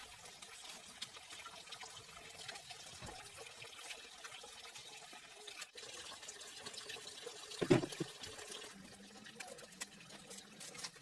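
Water trickling and splashing with small scattered clicks, and one louder short splash or knock a little under eight seconds in.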